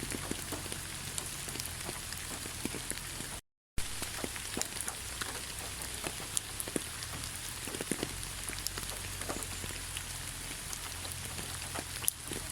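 Steady rain falling in a pine forest, with many separate drops pattering on nearby surfaces. The sound cuts out completely for a moment about three and a half seconds in.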